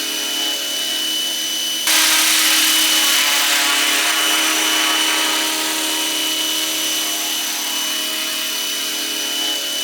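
RC scale MD 500 model helicopter in flight: a steady, high-pitched whine of its drive and rotors. About two seconds in, a rushing noise rises suddenly, then eases off over a few seconds.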